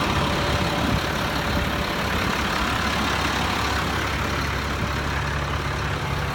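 Caterpillar 3126 inline-six diesel in a GMC 8500 truck idling steadily.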